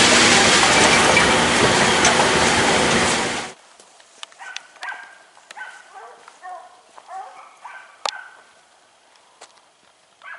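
Loud, steady vehicle running noise that cuts off abruptly about three and a half seconds in. Then a string of faint, short barks from boar-hunting dogs, repeating every half second to a second.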